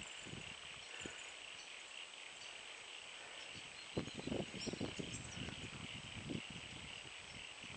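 Quiet outdoor ambience with a steady high-pitched insect chorus. From about four seconds in there are a couple of seconds of rustling and crackling in the vegetation.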